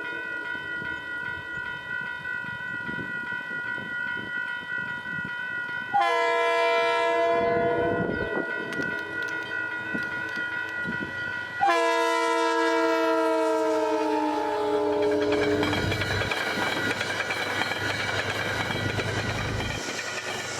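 Metro-North passenger train's horn sounding a chord of several tones, held for about six seconds, then blown twice more, at about six and twelve seconds in, each time sliding down in pitch as the train goes by. The horn gives way near the end to the steady rush and clatter of the train passing on the rails.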